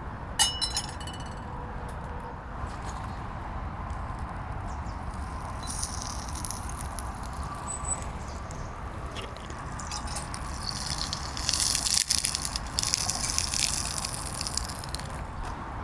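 Liquid being poured and splashing steadily, with a single ringing clink about half a second in and stronger hissing stretches later on.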